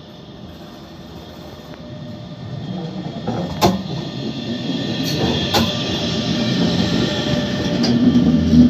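A train moving along the station tracks, growing steadily louder as it comes closer. Its wheels give sharp clacks over rail joints or points, four of them in the second half.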